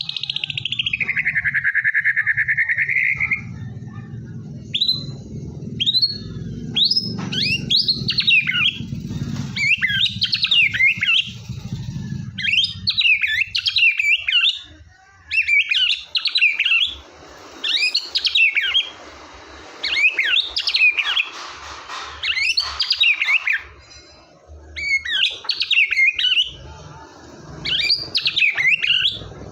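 White-rumped shama singing: a long falling whistle, a string of short rising notes, then rapid warbled phrases repeated about every two seconds. A low rumble runs under the first dozen seconds.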